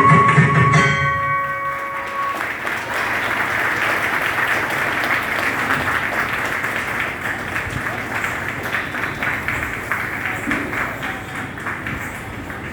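Dance accompaniment music ends about two seconds in, and audience applause follows, dense clapping that slowly dies down.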